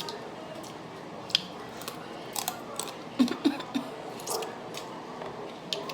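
Close-up eating of seafood: wet chewing and lip smacks with many sharp clicks, and a few short hums about three seconds in.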